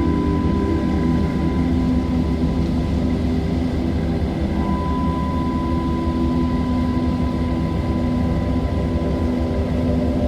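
Steady, low rumbling wind noise with a thin high tone in it that drops out briefly and returns about four and a half seconds in.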